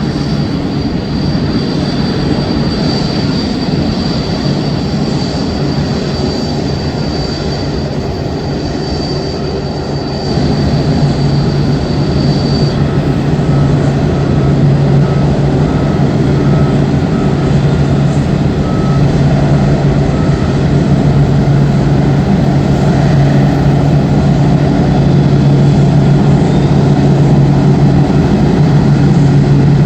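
Boeing 787 Dreamliner's jet engines running at taxi power: a steady rumble and hum with a high whine, growing louder about a third of the way in.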